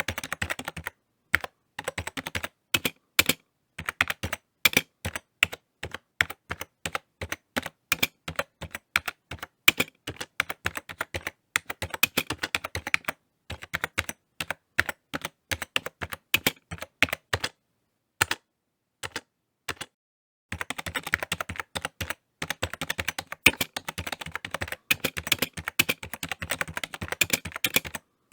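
Typing on a computer keyboard: irregular runs of key clicks, fast and dense near the start and again from about 20 seconds in, sparser single keystrokes with brief pauses in between.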